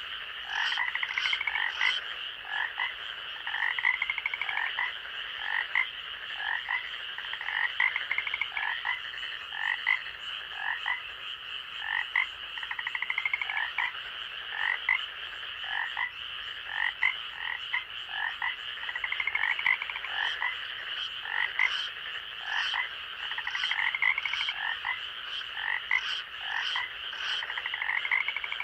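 Night chorus of frogs calling: many short croaks and quick pulsed trills, about one a second, over a continuous high-pitched trilling drone.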